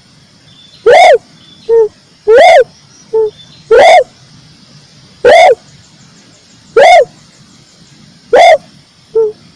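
Red turtle dove cooing: a loud arched coo repeated about every one and a half seconds, some coos followed quickly by a shorter, lower note.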